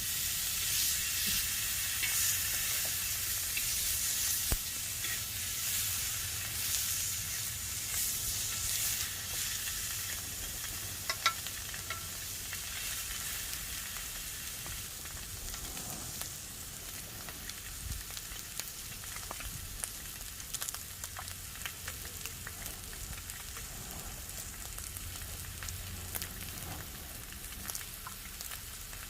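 Food sizzling on a hot griddle: a dense frying hiss, loudest at first and settling lower after about ten seconds, with a few light clicks.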